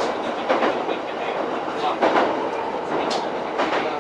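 E231-series commuter train running along the line, its wheels clacking over rail joints in a series of sharp, irregularly spaced clicks over a steady running noise, heard from inside the leading car.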